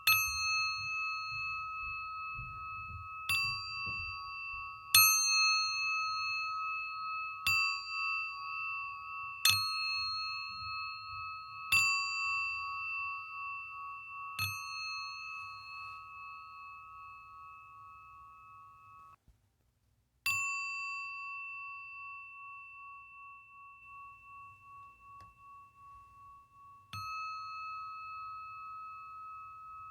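Singing bowl struck about nine times, every two or three seconds, each strike ringing on in a clear, slightly wavering tone that slowly fades. About two-thirds of the way through, the ringing cuts off abruptly to silence for about a second, then the next strike comes.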